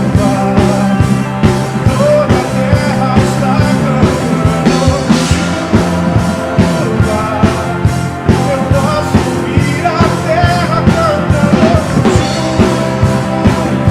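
Church worship band playing loud rock-style music with a steady drum beat under sustained chords.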